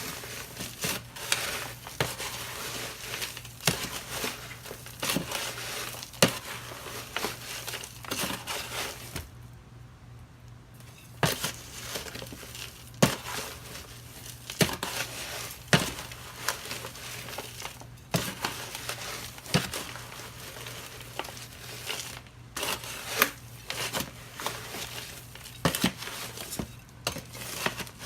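Crinkling and rustling handling noise with many sharp clicks and taps, over a steady low hum; it pauses briefly about ten seconds in.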